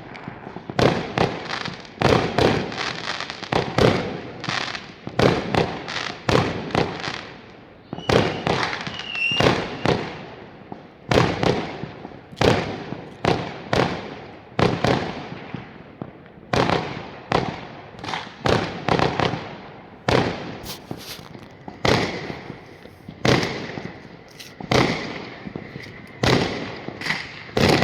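Fireworks and firecrackers exploding in a continuous barrage of sharp bangs at irregular intervals, one to several a second. A faint steady high tone joins in over the last few seconds.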